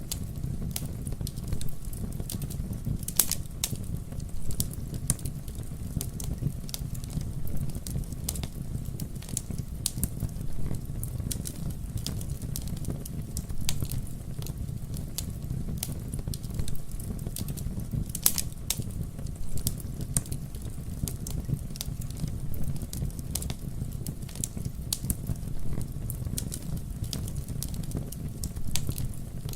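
Wood fire burning: a steady low rumble of flames under constant sharp crackles and pops, with a few louder pops scattered through.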